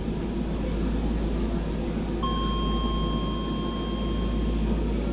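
Docklands Light Railway train rumbling steadily. About two seconds in, a steady high electronic tone sounds for about two and a half seconds and then stops.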